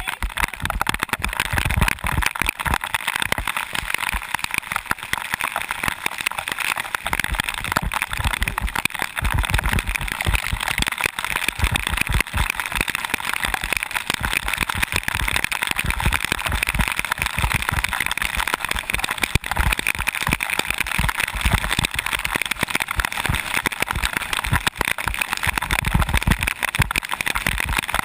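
Steady rushing noise of a bicycle descending in the rain, wet tyres hissing on the wet surface, with wind buffeting the microphone in repeated low rumbles.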